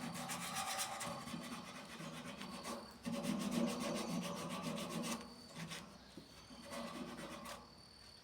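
Sanding the rusty iron body of a homemade fireplace stove to prepare it for painting: a rapid, rhythmic rasping rub, several strokes a second, easing off in the last couple of seconds.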